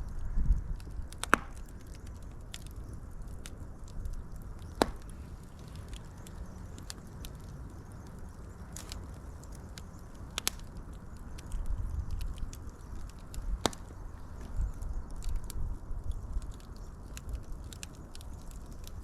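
Wood fire crackling: scattered small ticks and four louder sharp pops over a low, steady rumble.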